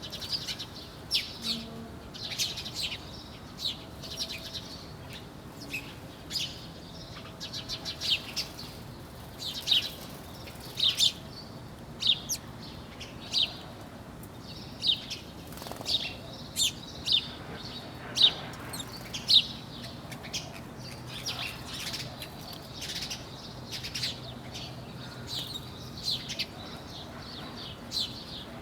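A group of small birds chirping: many short, sharp chirps overlapping at a quick, irregular pace, with some louder single chirps standing out.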